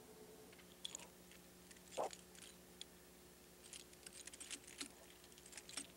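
Near silence: a faint steady hum with scattered soft ticks and crackles, and a single soft knock about two seconds in.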